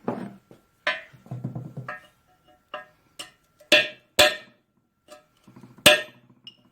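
Sharp, ringing metal-on-metal strikes and clinks of hand tools, irregularly spaced, with the loudest blows a little under four seconds in, just after four seconds, and near six seconds.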